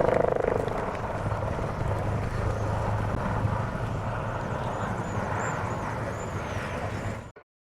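Military helicopters' rotors and turbine engines running in flight: a steady noise with a low throb, a little louder at first, until the sound cuts off abruptly a little after seven seconds.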